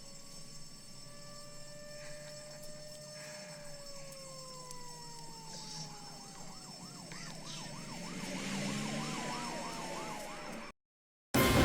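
Emergency vehicle sirens: a long wailing tone that slowly falls in pitch, joined about five seconds in by a fast up-and-down yelp at about two or three cycles a second. The sound grows a little louder, then cuts off suddenly near the end.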